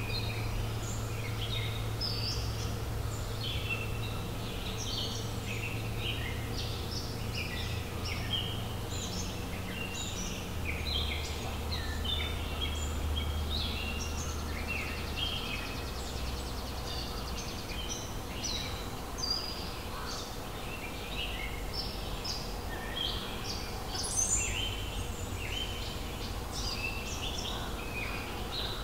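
Several songbirds chirping and singing, their short calls overlapping almost without a break, over a low steady rumble.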